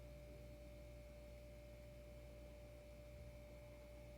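Near silence: room tone with a faint, steady single-pitched hum.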